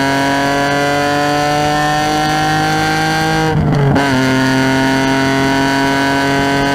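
Car engine under load, its pitch rising steadily as it accelerates; about three and a half seconds in it breaks off briefly for a gear change and comes back lower, then climbs again.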